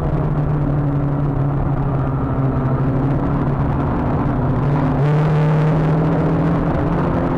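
Renault Clio 182's 2.0-litre four-cylinder engine pulling hard, heard from inside the car at speed, with a steady engine note that dips briefly about five seconds in before picking up again.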